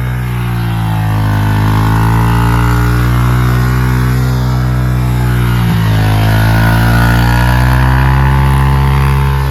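Small single-cylinder pit bike engine running steadily; its revs dip and come back up twice.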